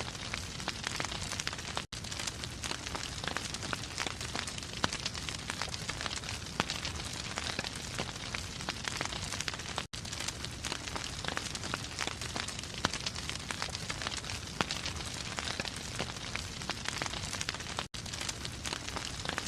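Wood fire crackling in a fireplace: a steady hiss of flame with frequent sharp pops and snaps. The sound drops out for an instant three times, about every eight seconds.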